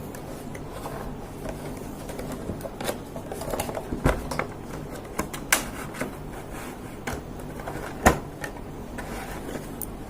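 Cardboard product box being opened by hand: irregular taps, clicks and rustles of the packaging, with the sharpest click about eight seconds in.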